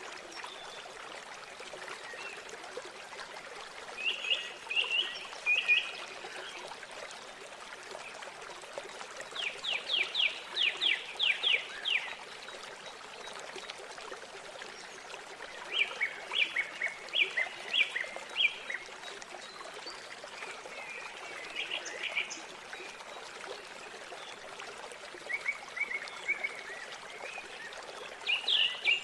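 River water flowing steadily, with small birds singing in repeated bursts of quick, high chirping notes every few seconds.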